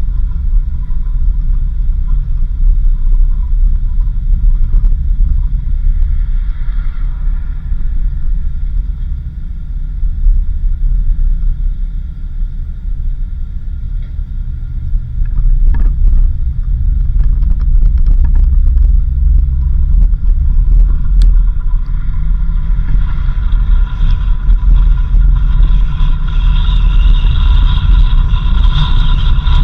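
Vehicle driving on a dirt road: a constant low rumble of engine and road noise, with occasional knocks and rattles. A steady high whine comes up over the last several seconds.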